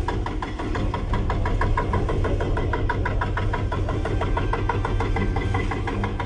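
A vehicle engine running with a steady low hum and a rapid, even knocking several times a second.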